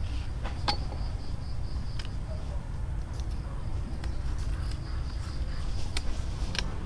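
A steady high insect-like buzz over a low rumble, with a few sharp knocks scattered through it.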